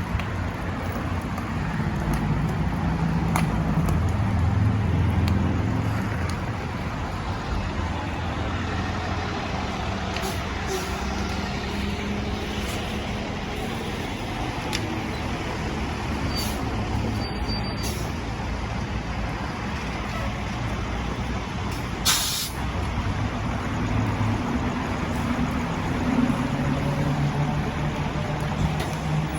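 Fire engine's diesel engine running, its pitch shifting up and down, over a steady hiss. A short, sharp burst of hiss comes about 22 seconds in.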